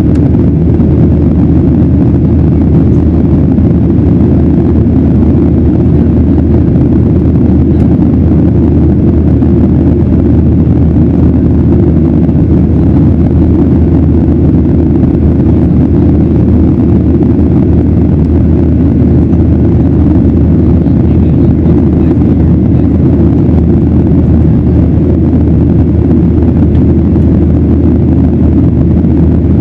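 Boeing 737-900ER's CFM56 turbofans and airflow heard inside the cabin as a loud, steady, deep rumble while the aircraft climbs after takeoff.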